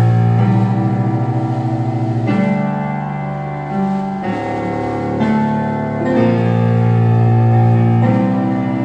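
Intro of a worship-song backing track: sustained keyboard chords over a deep bass, changing about every two seconds, with no drums playing.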